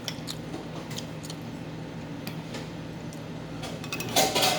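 Cutlery lightly clinking against a plate during eating, a few faint clicks over a steady low hum, with a louder clatter near the end.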